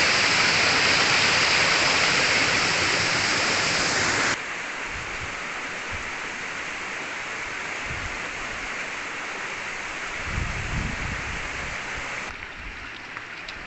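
Steady rush of a small waterfall, its flow low in the dry season, dropping suddenly to a quieter level about four seconds in and again near the end. A brief low rumble comes in the latter part.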